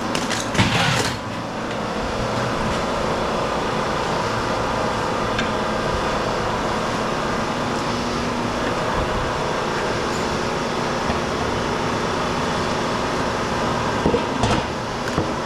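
Hydraulic scrap-cutting jaw running steadily while it cuts and crushes scrap aluminum, with sharp crunching and clattering of metal about a second in and again near the end.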